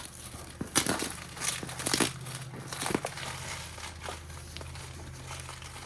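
Crinkling and rustling of packaging being handled, with several sharp crackles in the first three seconds and quieter handling after.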